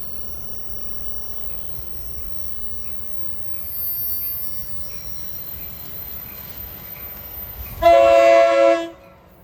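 Locomotive air horn giving one short blast of about a second, a chord of several notes, over the low rumble of an approaching train; it cuts off sharply.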